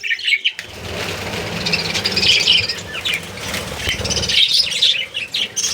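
Budgerigars chirping and chattering in quick, repeated high notes. Under them, a rustling noise comes in about half a second in and fades about four seconds later.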